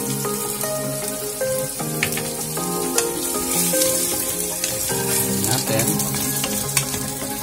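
Chicken pieces frying in melting butter in a pan: a steady sizzle, with a few knocks of the spatula as they are stirred, under background music.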